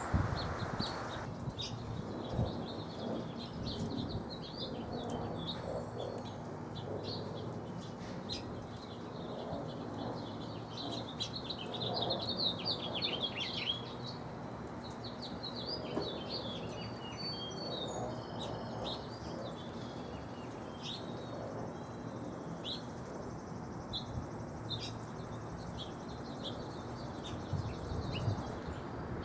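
Small backyard songbirds chirping and twittering in many short, quick calls scattered throughout, busiest about halfway through, over a faint steady low hum.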